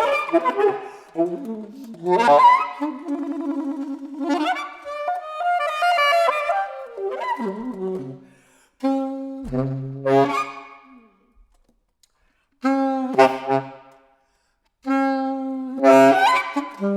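Solo saxophone playing phrases of short, quick notes and held tones, broken by a few brief silences in the second half.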